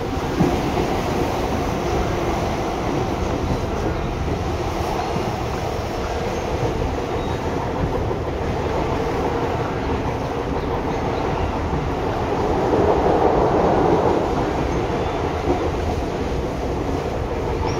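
Seibu 6000 series electric train with Hitachi GTO inverter control, running and heard from inside the car. A steady rumble swells louder for a couple of seconds about two-thirds of the way through.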